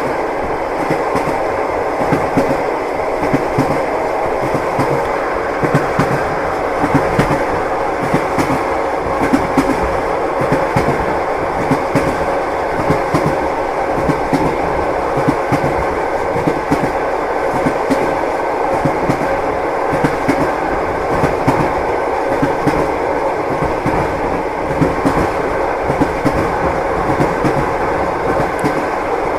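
Train wheels knocking over the rail joints, clickety-clack, over the steady rumble of a moving railway carriage.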